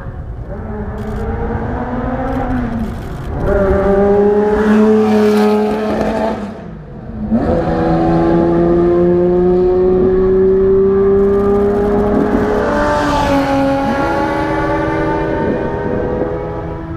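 Yamaha OX99-11's Formula 1-derived V12 engine accelerating hard. Its pitch climbs steadily and drops back briefly at a gear change about seven seconds in, then again about thirteen seconds in.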